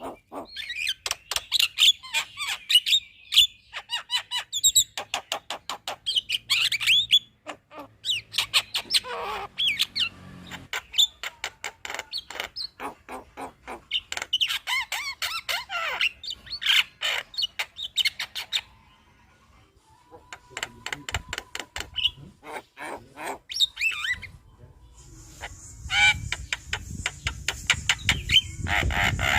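Javan myna chattering: long runs of rapid clicks mixed with quick whistled and harsh notes, with a short lull about two-thirds of the way through. Near the end a steady hiss and a low rumble join the calls.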